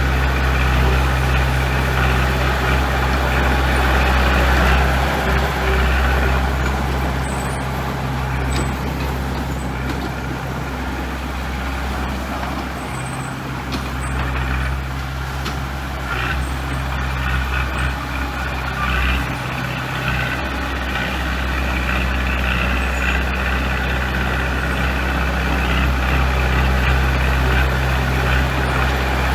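Heavy diesel construction machinery running steadily under load, a continuous low engine drone, with a few light knocks over it.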